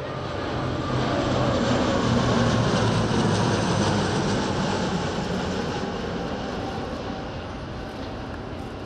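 Alenia C-27J Spartan twin-turboprop transport flying past: a steady propeller and engine drone that swells to its loudest about two to three seconds in, then slowly fades as it moves away.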